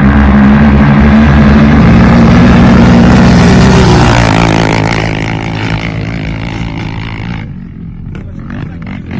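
Off-road vehicle engine running hard at high revs, then dropping in pitch about four seconds in and fading away, leaving scattered knocks.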